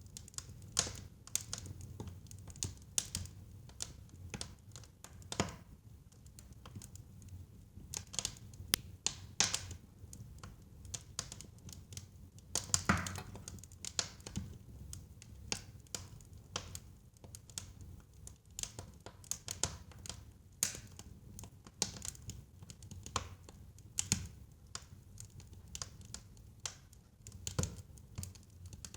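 Wood fire burning in a fireplace, crackling and popping in an irregular patter of sharp snaps over a low rumble of the flames, with a louder pop about halfway through.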